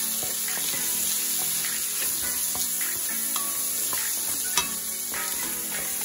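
Diced turkey bacon and garlic sizzling in butter and olive oil in a pan while being stirred with a wooden spatula, with one sharp click about two-thirds of the way through.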